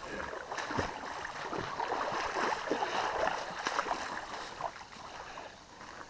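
Shallow creek water splashing and sloshing irregularly as someone crosses a stream ford, over the steady rush of the flowing creek.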